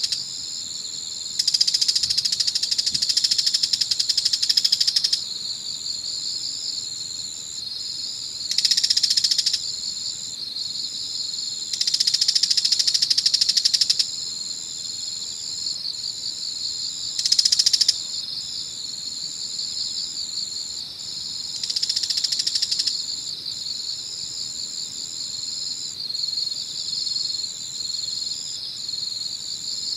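Evening chorus of autumn insects. One high, steady trill runs throughout, with a pulsing chirping a little lower in pitch. About five times, loud buzzy calls of one to four seconds rise over them, the first lasting about four seconds.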